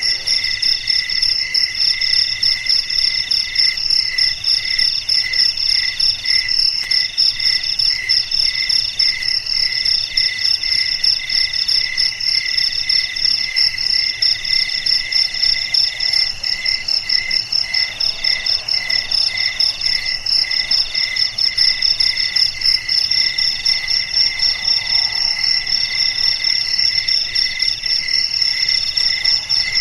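Chorus of crickets chirping steadily, several overlapping trills at different pitches, one of them coming in repeated phrases about a second long.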